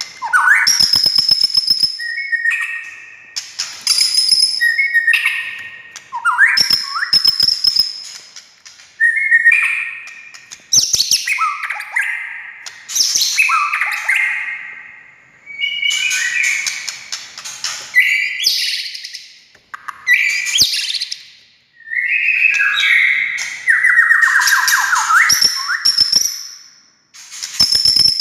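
White-rumped shama (murai batu) singing loud, varied phrases of whistles and sweeping notes, mixed with sharp clicks, one phrase about every two seconds with short pauses between.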